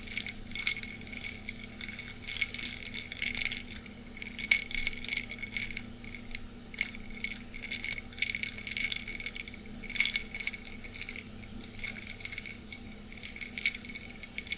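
Ice cubes clinking against the inside of a glass of ice water, in irregular clusters of quick ringing clinks. A faint steady air-conditioner hum runs underneath.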